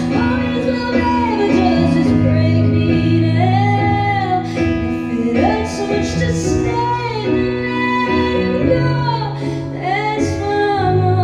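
A woman singing long, bending held notes over guitar chords in a live performance.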